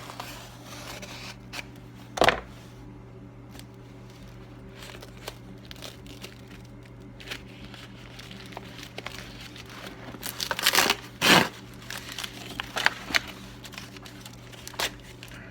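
Parcel packaging crinkling and tearing as it is opened by hand, with scattered crackles and a few sharp rustling strokes, the loudest about two seconds in and again around ten to eleven seconds in. A steady low hum runs underneath.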